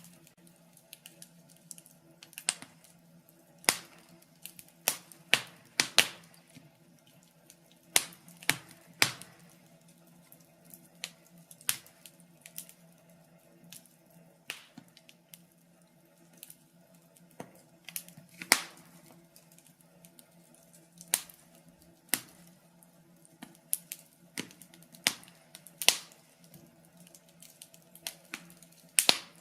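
Wood fire crackling in a fireplace: irregular sharp pops and snaps, some loud, over a faint steady low hum.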